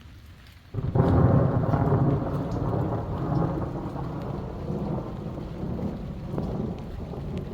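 A thunderclap breaks about a second in and rumbles on deep and loud, slowly fading, over steady rain.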